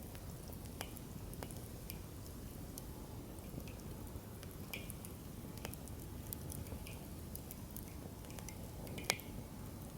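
Wood campfire in a fire stand burning steadily, with a low flame hiss and scattered crackles and pops, one louder pop about nine seconds in.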